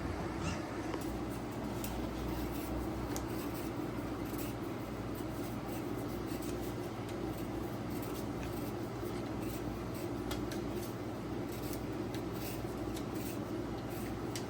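Light, irregular clicks and scraping of kitchen handling over a steady low hum.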